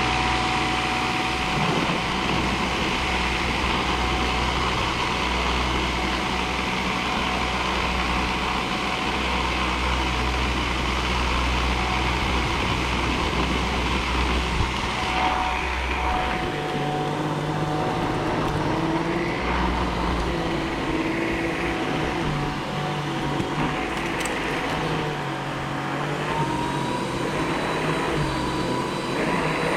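Samsung Jet 75 cordless stick vacuum running steadily with a constant whine, its lower hum changing about halfway through.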